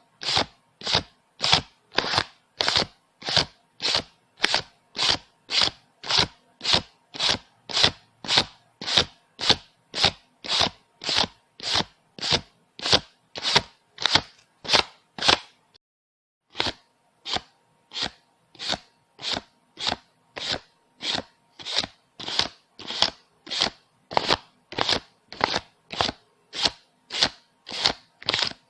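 Paper banknotes counted by hand, one bill flicked past at a time in an even rhythm of a little under two a second. A pause of about a second falls just past the middle, and then the counting resumes.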